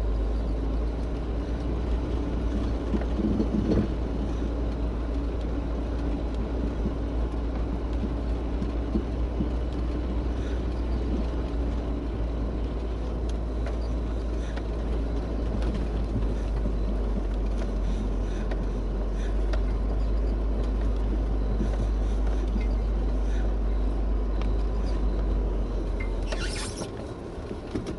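Car engine running in reverse gear and tyres rolling over snow as the car backs down a snowy hill, heard from inside the car as a steady low rumble. The deepest part of the rumble drops away near the end.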